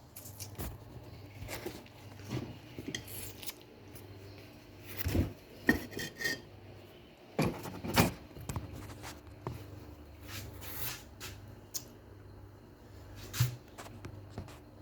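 Dishes and food containers being handled and set down: scattered clinks, knocks and rubbing, over a steady low hum.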